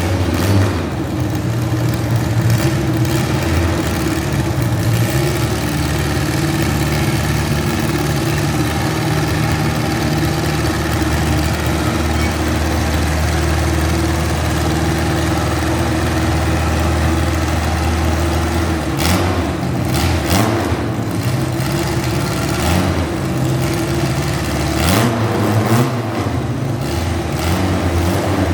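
Garden pulling tractor engine running steadily, its pitch shifting as it is revved up and eased off. A few sharp knocks or clanks come about two-thirds of the way through and again near the end.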